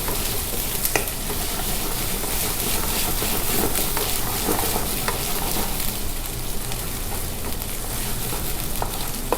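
Ginger garlic paste sizzling in hot oil in a frying pan while it is stirred, a steady frying hiss with a few light clicks of the utensil against the pan.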